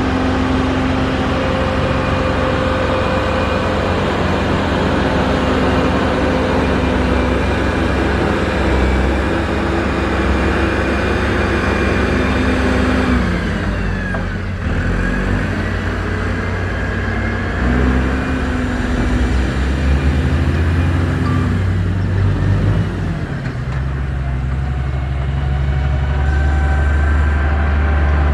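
Heavy diesel engine of a road-construction machine running under load. Its pitch drops about halfway through, then climbs back up.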